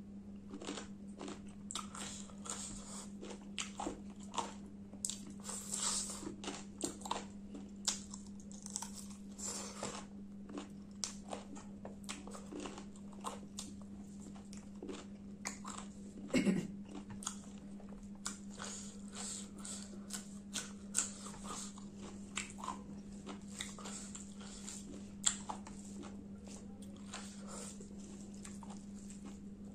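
Close-up eating sounds of a person chewing rice and chicken curry eaten by hand: a steady stream of short wet smacks and clicks of the mouth. A steady low hum runs underneath.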